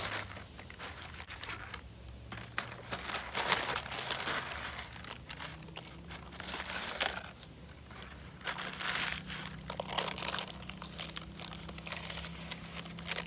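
Food packaging crinkling and rustling in irregular bursts as items are handled and moved about.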